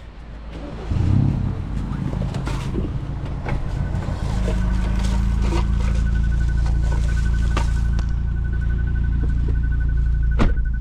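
A car engine running steadily, louder from about four seconds in, with a fast electronic warning chime beeping over it.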